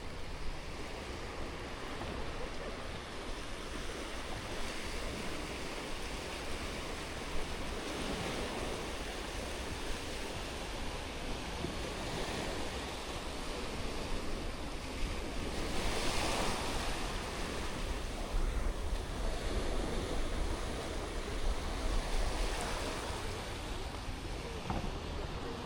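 Sea waves washing onto the beach, surging every few seconds, loudest about two-thirds of the way through, with wind rumbling on the microphone.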